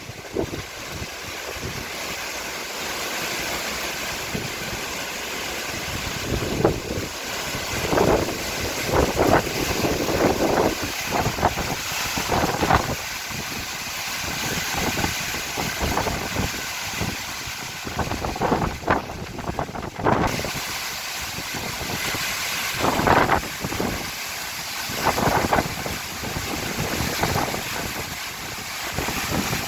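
Tropical cyclone winds blowing hard in irregular gusts, buffeting the microphone.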